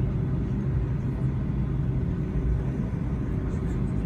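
Boeing 757-200 cabin noise from a window seat: a steady low rumble of the engines at idle, with a faint hum, ahead of takeoff.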